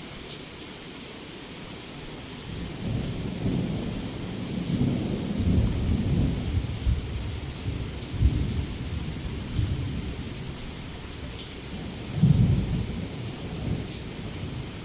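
Heavy rain falling with a steady hiss while thunder rolls in low rumbles, building from a few seconds in and peaking in a loud clap near the end before dying away.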